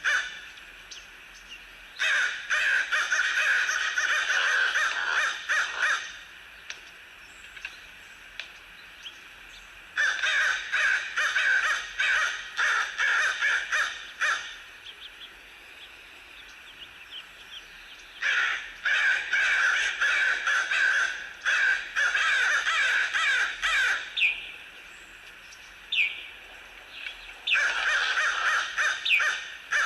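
Crows cawing in dense bursts of rapid, overlapping caws, each lasting several seconds, with a few single caws in the short gaps between.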